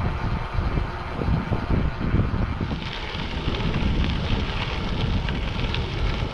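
Wind buffeting the microphone while riding a bicycle, a steady low fluttering rumble. About three seconds in, a higher hiss with small scattered ticks joins it.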